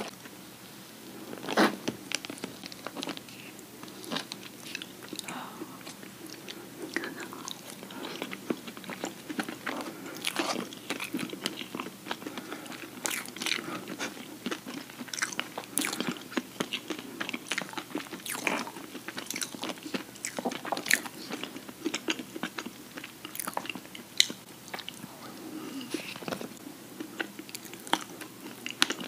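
Close-miked chewing and biting of chocolate lava cake with a nutty Toblerone topping: many small sharp clicks and crunches. Plastic forks cut into the cake.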